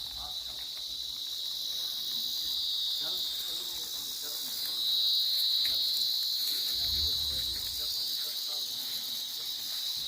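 Crickets chirping in a steady, unbroken high-pitched trill, which grows louder about five seconds in.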